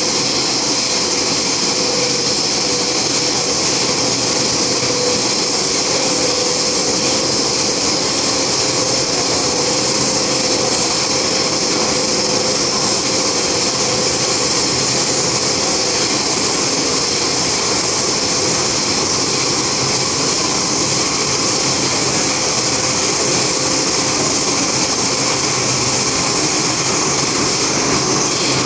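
Onboard running noise of an MTR M-Train electric multiple unit at steady speed: a constant rushing hiss of wheels on rail and air, with a faint steady whine that fades out about halfway through.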